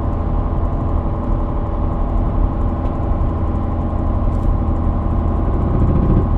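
Inside the cab of a Chevy truck with a 5.3 L LS V8 at highway speed: steady engine and road drone with a faint, rapid, repeating clicking, the 'woodpecker' noise that comes faster with speed. The owner traced it to the Active Fuel Management (4/8-cylinder deactivation) system.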